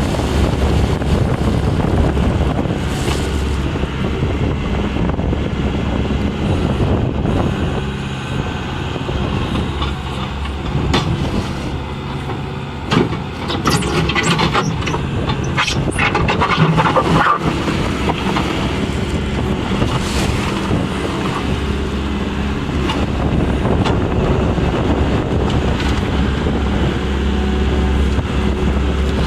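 Bobcat skid steer's diesel engine running as the machine is worked, its pitch rising and falling, with a run of knocks and rattles about halfway through.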